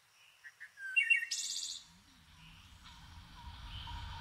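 Birds chirping: two short chirps, then a brief burst of high chirping and a quick trill about a second in, over a low background rumble that slowly grows louder.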